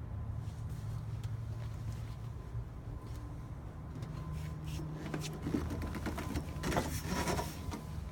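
Footsteps and scuffing clatter on the tractor's deck plate behind the cab: scattered clicks from about halfway in, thickening into a brief clatter near the end, over a steady low hum.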